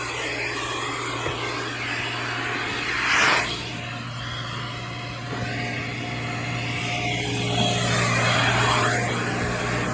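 Car wash vacuum running with a steady motor hum under the rush of air through its hose and nozzle, the rushing sound rising and falling as the nozzle moves, with a brief louder surge about three seconds in.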